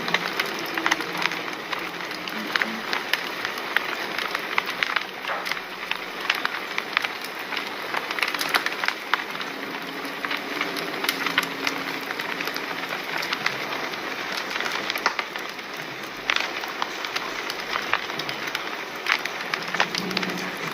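Fire crackling: a steady hiss with many sharp, irregular pops and snaps throughout.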